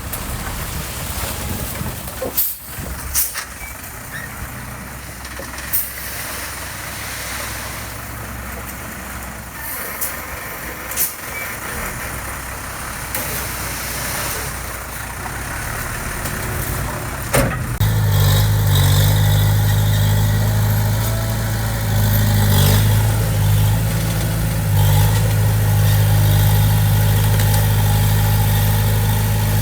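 Heavy construction machinery working: a diesel engine running under scattered sharp clanks and knocks, then a little past halfway a loud, steady low engine drone takes over.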